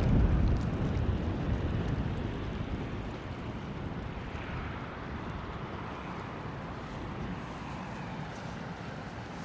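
Outdoor city street noise in a snowstorm: a low rumble of traffic and wind buffeting the microphone, loudest in the first couple of seconds and then easing, with a softer passing swell midway.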